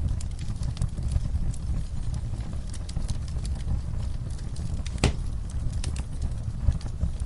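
Wood fire in a fireplace crackling, with many small irregular snaps over a steady low rumble and one sharper pop about five seconds in.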